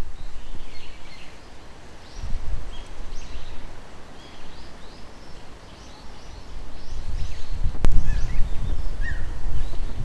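Birds calling: many short high chirps and chips, some slurring downward, over a low rumble that rises and falls in gusts. A single sharp click comes about eight seconds in.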